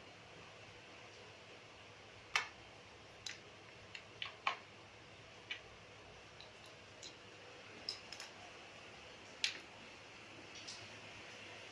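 About a dozen light clicks and taps at irregular intervals over a faint steady hiss, with the sharpest ones about two seconds in and again near the end.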